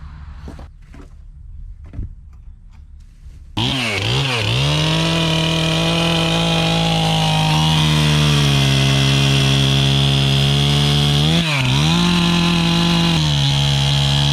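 Gas chainsaw revved up about a third of the way in and held at a high, steady pitch, with the throttle let off and opened again twice near the end. Before it starts, only a few faint clicks and knocks.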